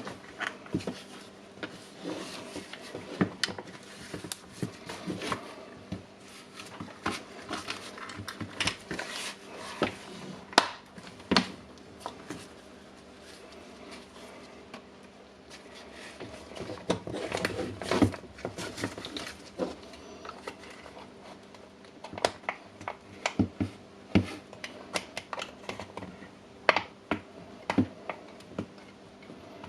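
Hands handling a cordless rotary hammer drill's plastic housing parts and wiring: irregular clicks, taps and light knocks of plastic parts being moved and tried together.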